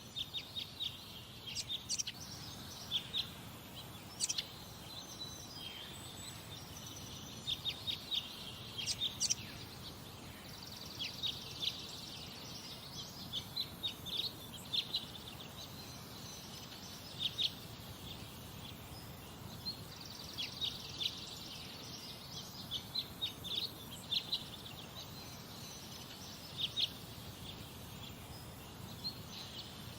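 Songbirds chirping, with short high chirps coming in quick clusters every second or two over a steady low background hiss.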